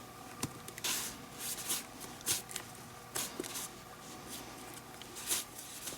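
Leather lace of a Rawlings Gamer baseball glove being worked by hand during a full relace: short rustling drags of leather lace pulled through the lacing holes, with a few sharp clicks in between.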